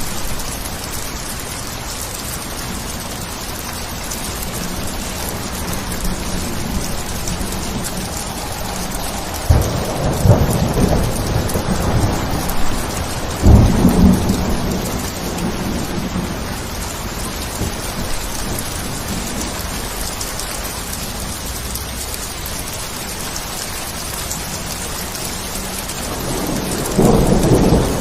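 Steady rain with rolls of thunder: a low crack and rumble about a third of the way in, another soon after, and a third rumble starting near the end.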